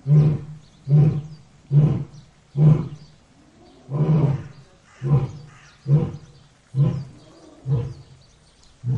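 Lion roaring: a run of short, deep grunting roars about one a second, the later ones weaker and a little further apart.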